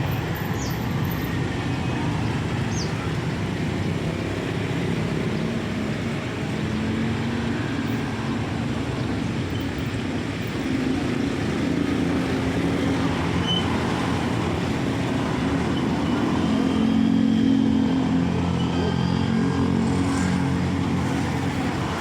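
Steady road traffic noise, with motor vehicles passing, the loudest about three-quarters of the way through.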